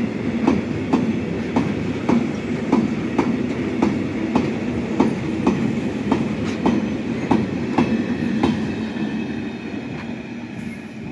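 Loaded double-deck car-carrier freight wagons rolling past, their wheels clicking over the rail joints about twice a second over a steady rumble. The clicking stops about three-quarters of the way through and the rumble fades as the end of the train goes by.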